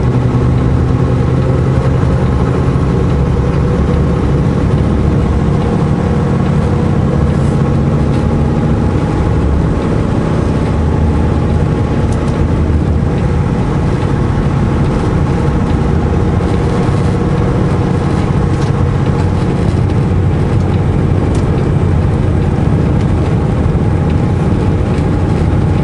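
Semi truck's diesel engine heard from inside the cab, a steady low drone whose note shifts about nine seconds in.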